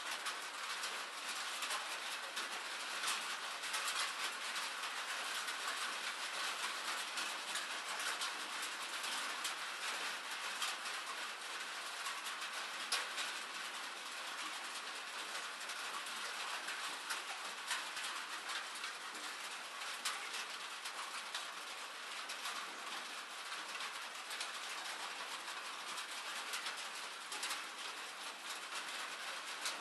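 Steady rain: an even hiss with a dense patter of individual drops.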